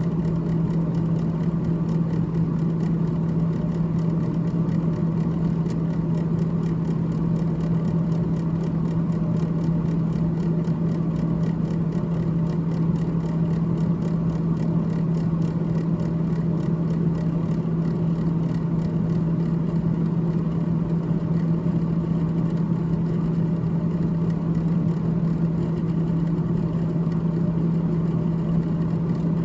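Freezer fan of a GE GTH18XCTZRBB refrigerator running with a steady, unchanging low hum at one strong pitch, over a light whirring noise.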